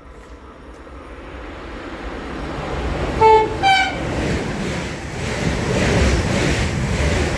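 An ÖBB Taurus electric locomotive sounds its horn as it approaches at speed: two short blasts about three seconds in, a lower note then a higher one. The rumble of the passing train grows louder throughout.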